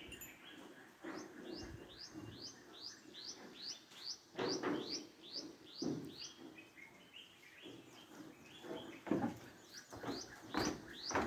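A bird calling in a quick series of short, rising, high chirps, about two or three a second, joined by other bird calls. Several louder, lower sounds break in a few times.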